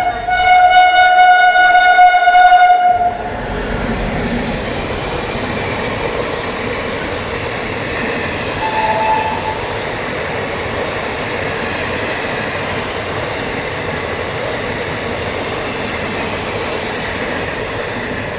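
Electric train's horn sounding a loud, steady blast that cuts off about three seconds in, followed by the steady running noise of the train passing on the line. A brief faint tone sounds about nine seconds in.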